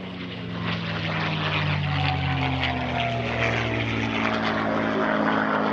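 Propeller-driven aerobatic airplane's piston engine running at high power, its note sliding slowly and steadily down in pitch.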